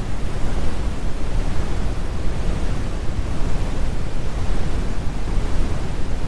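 Steady synthetic brown noise: a dense, even low rumble with the highs rolled off and no separate events.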